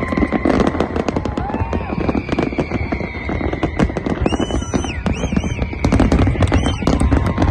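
Fireworks display: a dense, continuous barrage of shells bursting in rapid bangs and crackles. Crowd voices run underneath, and high gliding whistles come in about four seconds in.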